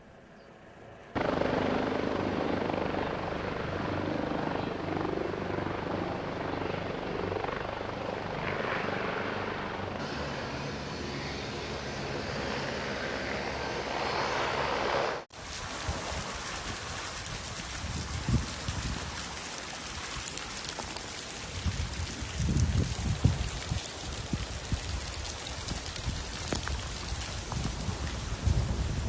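A helicopter's steady rotor and engine noise, which stops abruptly about halfway through. Then heavy rain, with irregular low rumbles.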